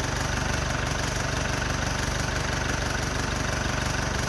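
2016 Mitsubishi Outlander diesel engine idling steadily under the bonnet, just after an exhaust manifold replacement, with a rattle present.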